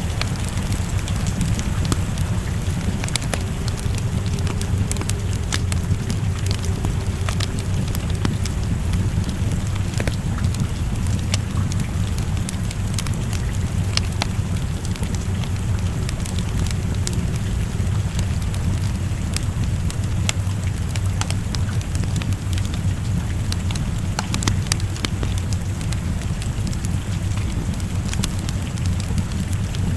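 Fireplace fire crackling with frequent sharp pops over a steady rush of rain, with a deep low rumble underneath.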